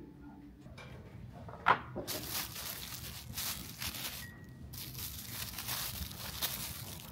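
A single click, then crinkling and rustling for about five seconds, broken by a short pause in the middle.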